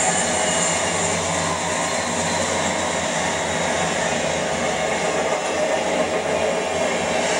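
Intermodal freight train passing close by at speed: the locomotives go by, then flatcars carrying semi-trailers, in a steady rushing rumble of wheels on rail.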